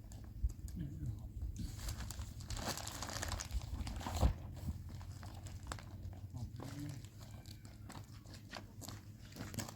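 Plastic crinkling and rustling as it is handled, in irregular bursts, with one sharp knock about four seconds in.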